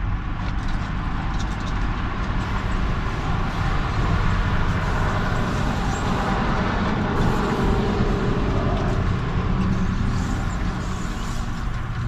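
Steady motor-vehicle noise: a low hum under an even rushing haze, with no break.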